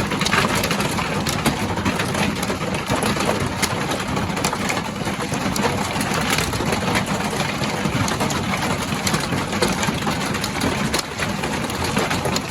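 Hail pelting a caravan's roof: a loud, steady clatter of countless small impacts over a continuous roar.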